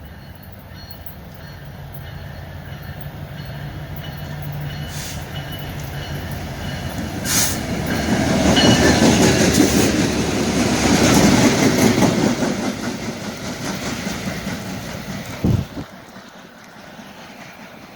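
A train passing close by: its rumble builds over several seconds, is loudest about halfway through, then fades. There is a short low thump near the end, just before the sound drops away.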